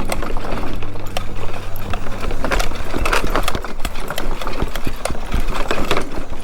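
Motor scooter running over a rough dirt trail: a low motor hum under irregular knocks and rattles as the scooter jolts over bumps.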